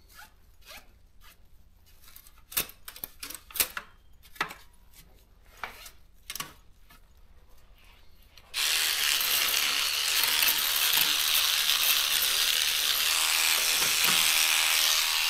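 Scattered clicks and knocks from the Daro 20 typewriter's mechanism being worked. About eight and a half seconds in, an electric cleaning brush switches on suddenly and runs steadily and loudly.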